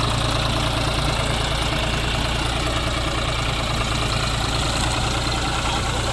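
Diesel engine of farm machinery idling steadily, a constant low hum with no change in speed.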